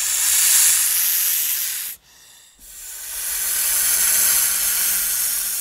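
Snake hissing: two long hisses, the first breaking off about two seconds in and the second starting just over half a second later.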